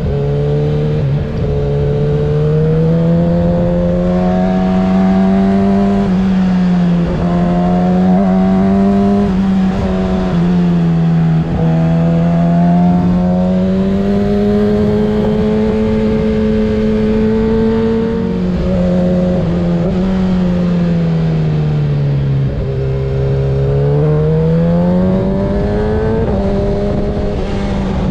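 2024 Kawasaki ZX-6R 636's inline-four engine through a Graves exhaust, under way on a ride. The note rises and falls several times as the rider rolls on and off the throttle and changes gear.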